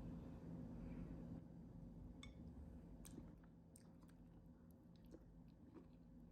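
Near silence: faint room tone with a few soft, scattered clicks and taps.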